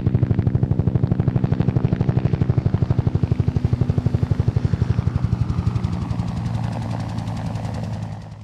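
Helicopter rotor chopping in a fast, even beat over a steady engine hum; in the second half the beat eases and a higher tone falls, and the sound cuts off suddenly at the end.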